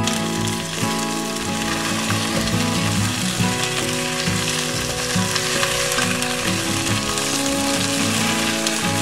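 Potatoes and sliced onions sizzling steadily in hot oil in a nonstick wok while being stirred with a spatula, with background music playing underneath.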